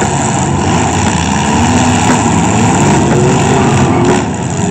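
Several minivan, pickup and SUV engines running hard and revving together in a demolition derby, their pitch rising and falling, with a few faint knocks from contact between the vehicles.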